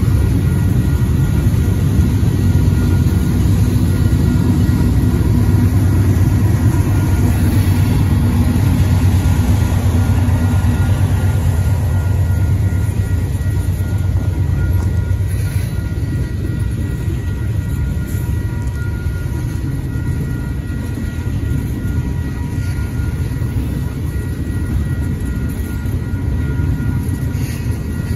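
Two freight trains passing at once: tank cars rolling steadily through a grade crossing while a second freight crosses a bridge behind. A deep locomotive rumble, heaviest in the first half and easing after, comes from the second train's mid-train GE C44-9W distributed-power unit going by.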